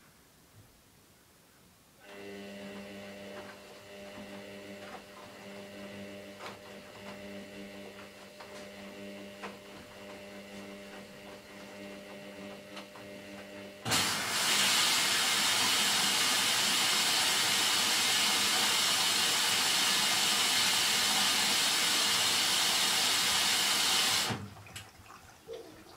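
Hoover DYN9144D3X washing machine topping up with water: a steady electric hum with light clicks sets in, then about halfway through a loud rush of water pours in for about ten seconds and stops abruptly.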